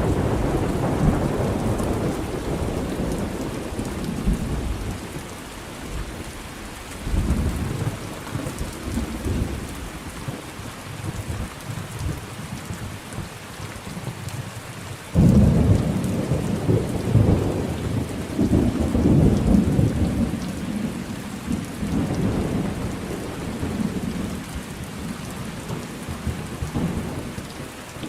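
Thunderstorm with steady rain and rolling thunder. Rain hisses throughout while low rumbles swell and fade. About halfway through a thunderclap starts suddenly and rumbles on, slowly dying away toward the end.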